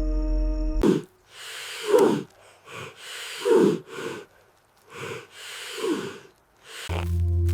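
A person breathing hard and gasping: about four ragged, heavy breaths, each ending in a voiced exhale that falls in pitch, with short pauses between them.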